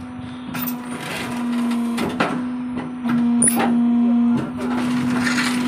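Brick-making machine running: a steady motor hum with a handful of sharp clanks and knocks at irregular intervals.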